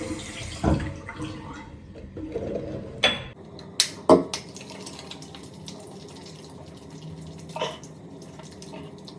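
Water running steadily, with a few sharp knocks and clicks, the loudest about 4 seconds in.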